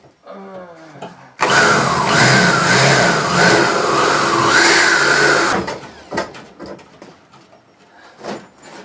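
Electric drill boring out a spot weld in the car's sheet-metal frame: a loud run of about four seconds with a wavering whine as the bit cuts, then it stops, followed by a few light knocks.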